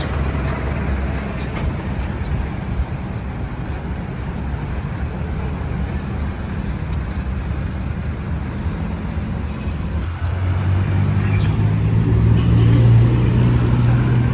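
Road traffic: motor vehicle engines running steadily, with one engine's low hum growing louder about two-thirds of the way in as it passes close.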